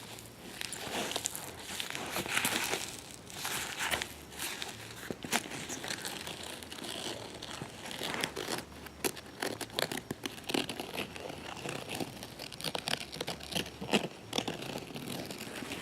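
Hands handling and scratching a Whisker City faux leather cat carrier: irregular crinkling and rustling with many sharp clicks.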